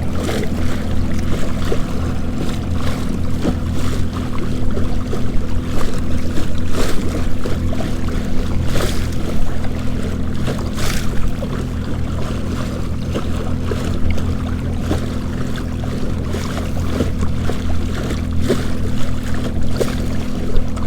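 Choppy waves splashing and slapping against a fishing kayak's hull, with wind noise on the microphone, over a steady low hum.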